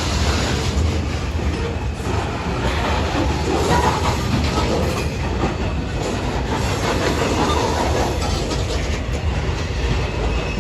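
Freight train cars rolling past, a steady rumble of wheels on the rails.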